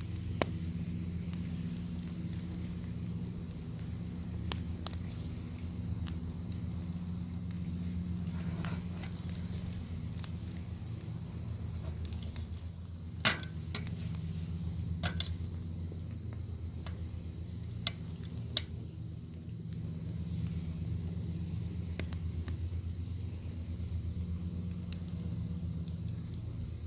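Bacon sizzling over a crackling wood fire: a steady high hiss over a low steady rumble, with scattered sharp pops and crackles, the loudest about halfway through.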